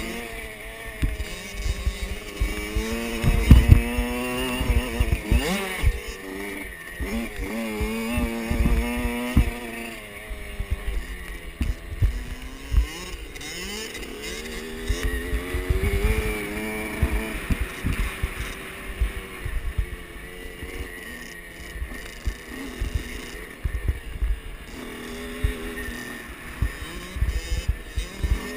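Kawasaki KX65 65cc two-stroke dirt bike engines revving, the pitch climbing and dropping again and again as the throttle opens and closes. Frequent low thumps and knocks run through it.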